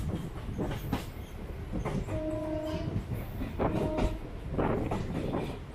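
MEMU electric passenger train running along the track, heard from on board: a steady rumble with wheels clicking over the rail joints. Two brief steady tones sound about two and about four seconds in.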